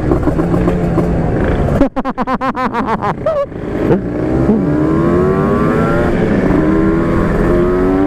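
Two-stroke motorcycle engine ridden hard. About two seconds in the throttle is shut and the engine stutters and pops for a second or so, then it pulls again, its note rising twice as it accelerates, with wind rushing over the microphone.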